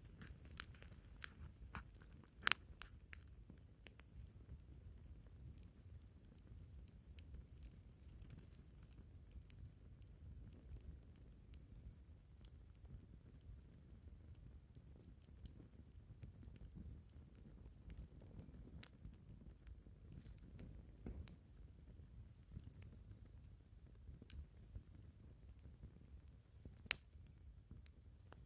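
Crickets chirping in a steady, high-pitched trill, with a campfire crackling underneath: scattered sharp pops, several in the first few seconds and a loud single pop near the end.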